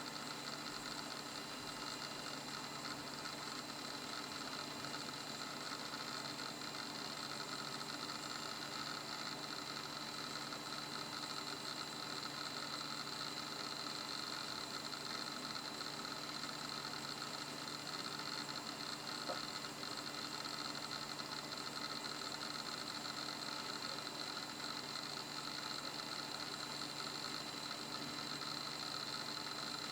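2 GB laptop hard disk drive from a Toshiba Libretto 50CT spinning steadily: an even high whine over a hiss, with one faint tick about two-thirds of the way through.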